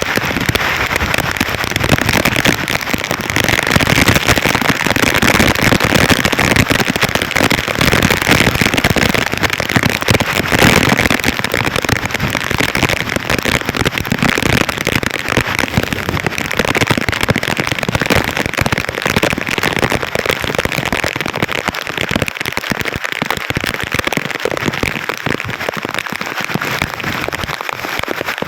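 Heavy rain falling, a loud dense crackle of countless drops striking, easing slightly over the last several seconds.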